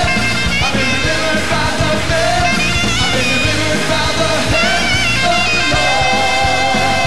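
Live gospel worship music: a full band with drums playing an upbeat song, with singing.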